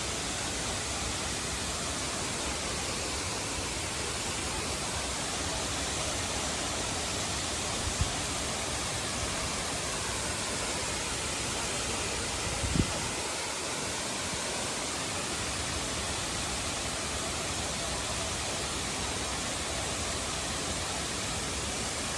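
Waterfall rushing steadily, a dense even roar of falling water, with a couple of brief knocks near the microphone about eight and thirteen seconds in.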